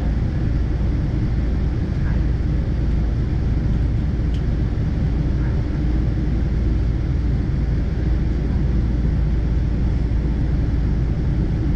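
Cabin noise inside a Boeing 777-200ER, heard from a window seat: a steady low rumble from the engines and airframe, with a faint click about four seconds in.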